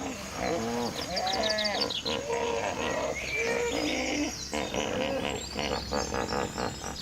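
Animal calls: a run of short cries that bend in pitch and overlap, one after another, over a steady background of natural ambience.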